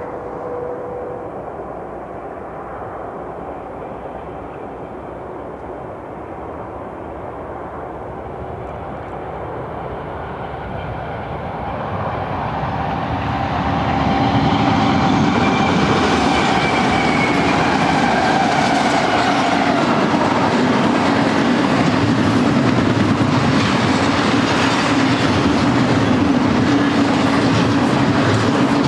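BNSF double-stack intermodal freight train approaching and passing: the GE ES44 diesel locomotives grow steadily louder and go by about 14 seconds in, followed by a long run of loaded container well cars rolling past with a steady clatter of wheels on the rails.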